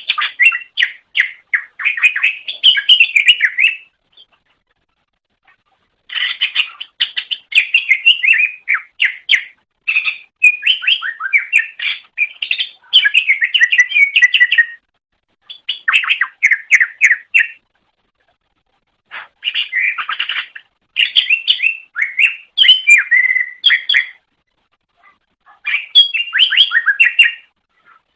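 Cucak ijo (green leafbird) singing in long, rapid chattering phrases of quick varied notes, with several short pauses between phrases.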